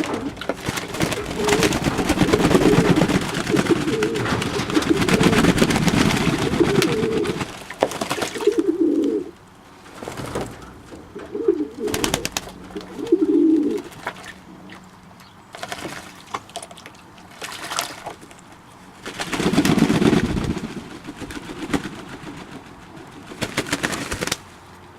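Domestic pigeons cooing: a long, continuous run of low cooing over the first seven seconds or so, then several shorter bouts, with scattered sharp clicks in between.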